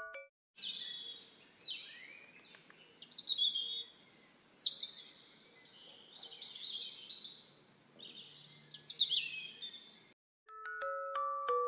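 Small birds calling in quick bursts of short, high notes, many sliding down in pitch. Glockenspiel music comes back near the end.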